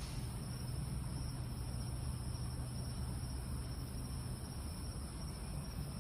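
Steady night ambience: a constant high insect chorus, like crickets, over a low, even rumble and hiss.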